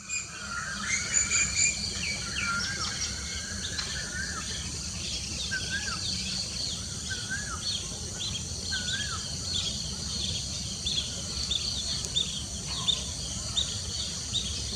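Birds calling over a steady insect chorus: a bird repeats short, wavy whistled notes every second or so, with quick higher chirps through the rest, over a continuous high insect drone and a low steady rumble.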